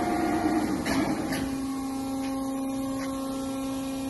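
Hydraulic system of a Hegenscheidt deep hole drilling machine running. A rushing whir from the head traversing out ends with a couple of clicks a little over a second in, leaving the steady hum of the hydraulic unit.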